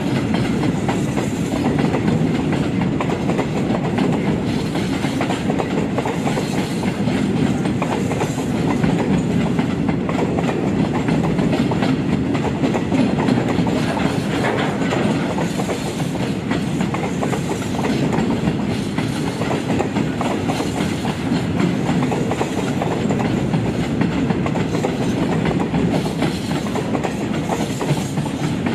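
A train running on the rails: a steady, continuous rumble with wheel clatter that neither starts nor stops.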